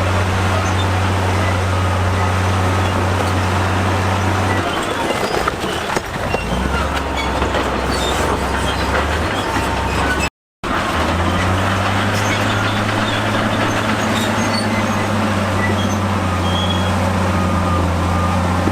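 Heavy diesel engine of a crawler bulldozer running steadily under load, with the rattle and clatter of its tracks and the stone. The engine note drops lower for a few seconds about five seconds in, cuts out briefly about halfway, then returns to a steady run.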